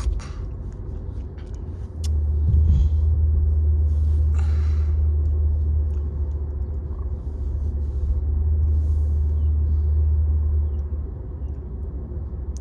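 Low rumble of a Toyota Camry driving, heard from inside the cabin. It swells about two seconds in and eases off near the end.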